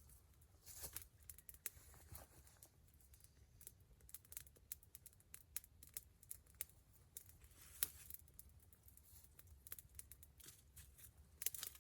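Wood campfire crackling softly: scattered, irregular sharp pops and snaps, a few louder than the rest.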